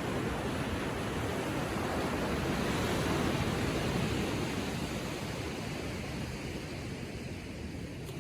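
Gentle ocean waves lapping on the shore: a steady wash of surf that swells about three seconds in, then slowly subsides.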